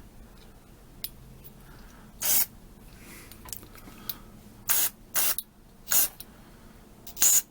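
Aerosol carburetor cleaner sprayed in about five short hissing bursts through a small-engine carburetor's fuel passages, to clear a passage that is still somewhat restricted.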